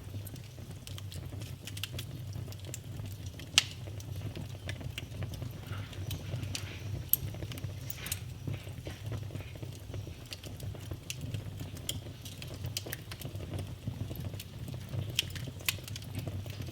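Wood fire crackling in a fireplace: irregular pops and snaps, the sharpest about three and a half seconds in, over a steady low hum.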